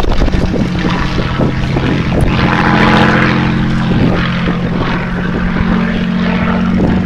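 Supermarine Spitfire's Rolls-Royce Merlin V12 engine and propeller as it flies a display pass: a loud, steady engine drone whose pitch shifts slightly about four seconds in.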